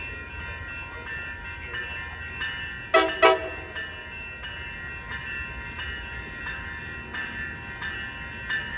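Passenger train approaching a station with warning bells ringing steadily in a slow pulse over a low rumble. About three seconds in come two short, loud sounds that fall in pitch.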